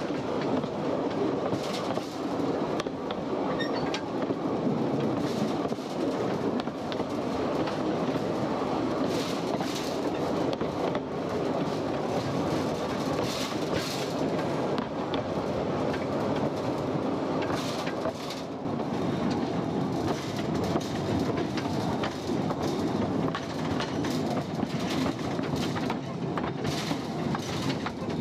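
Narrow gauge mine railway train running along the track: a steady rumble with sharp clicks of the wheels over rail joints, coming in clusters.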